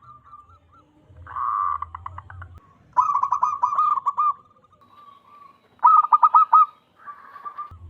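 Zebra dove cooing: several bursts of quick, staccato repeated coos, some faint and some loud, the loudest phrase about six seconds in.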